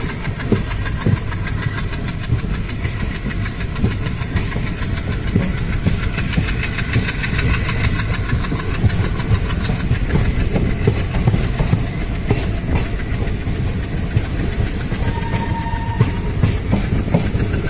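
Express train coaches running at speed, heard from an open coach doorway: a steady rumble of wheels on rail with frequent irregular clicks and knocks from the track.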